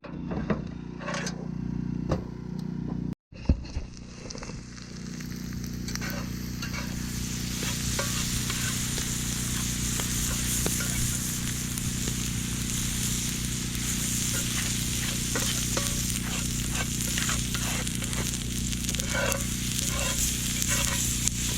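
Vegetables sizzling in butter in a cast-iron pan over an open fire, with a utensil stirring and tapping in the pan. The sizzle grows louder a few seconds in and then holds steady.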